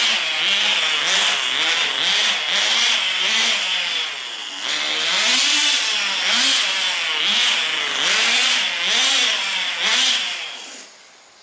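Tamiya TGS 1/10 RC car's small nitro glow engine buzzing high as the car runs, revving up and down over and over. Near the end it cuts out quickly: the engine suddenly stalls.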